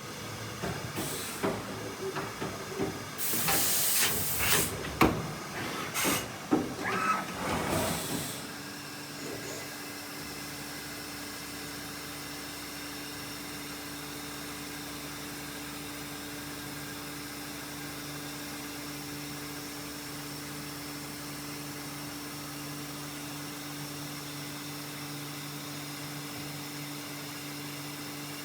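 Mazak INTEGREX 400-IV multitasking CNC lathe in operation: for the first eight seconds or so, bursts of air hiss mixed with clunks and knocks, then a steady machine hum with a constant low tone for the rest.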